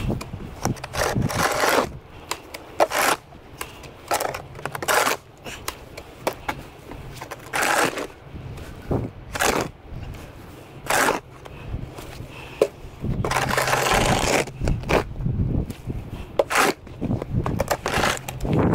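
Snow shovel scraping and scooping snow, in short strokes every second or two, with one longer scrape about two-thirds of the way through.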